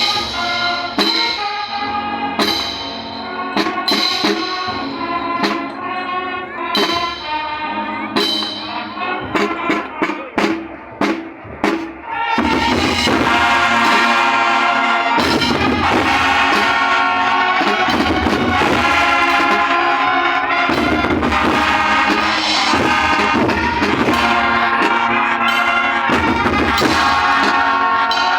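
Student marching band of brass and drums playing: drum strikes over the melody come faster and faster, and about twelve seconds in the full band comes in loud and sustained.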